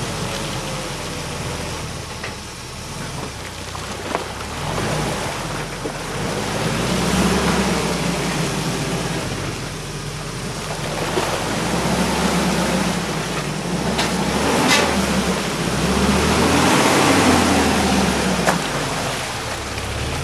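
UAZ Patriot SUV engine running low at idle as the vehicle crawls along a forest track without throttle, over a steady rush of tyre and ground noise that swells and fades. A few sharp clicks or cracks stand out, notably near the middle and again toward the end.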